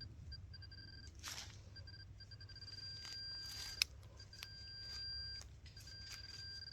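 Metal detector target tone beeping on and off at a steady high pitch as it is passed over a target in the hole. Scraping of digging in wet soil comes through about a second in and again around three seconds, with a sharp click just before four seconds.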